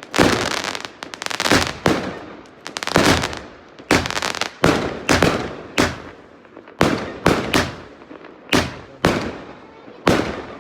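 Firework cake (a multi-shot box of fireworks) going off in a rapid series of loud bangs, one or two a second, each sharp report trailing off in a crackle.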